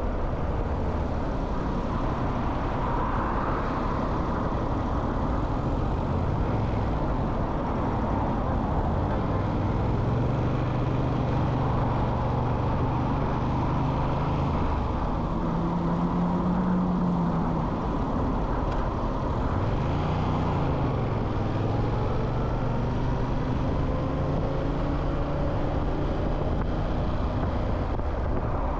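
Motorcycle engine running at city speeds, its pitch rising and falling with throttle and gear changes, over steady wind and road noise.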